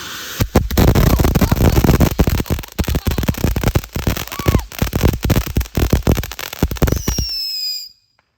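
Ground firework fountain (a Mad Dog) burning. A hiss turns about half a second in into loud, dense, rapid crackling, with a brief whistle near the end, then the sound stops suddenly.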